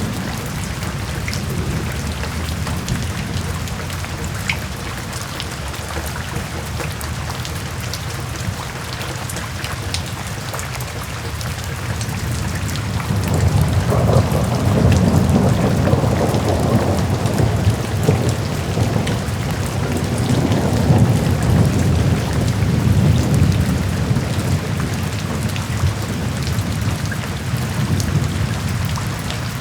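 Steady rainfall with fine drop clicks, and a long low rumble of thunder that swells about halfway through and fades away over roughly ten seconds.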